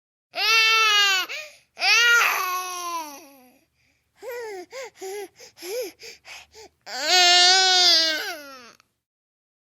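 Baby crying in slow, drawn-out wails. There are two long wails, then a run of short choppy sobs, then a third long wail, after which the crying stops.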